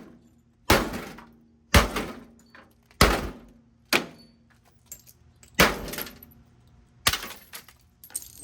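Heavy blows smashing a microwave oven: six hard impacts about a second or so apart, each followed by a short rattle of breaking parts and loose debris.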